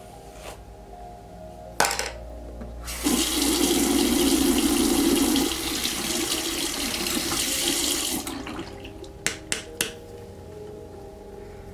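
Water tap running into a sink for about five seconds, set off by a sharp knock and followed by a few quick clicks.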